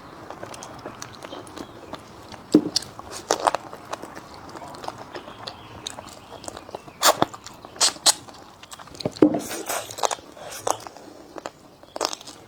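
A person eating: irregular crunching bites and chewing, with a few sharper clicks scattered through.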